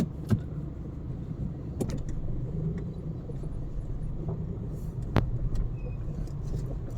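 Car on the move: a steady low rumble of engine and road noise, broken by a few sharp clicks or knocks, the strongest at the very start and another about five seconds in.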